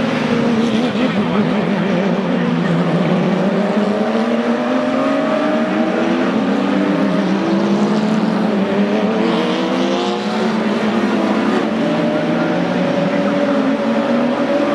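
A field of race car engines running together just after being started, idling and blipping their throttles, several engine notes wandering up and down over one another.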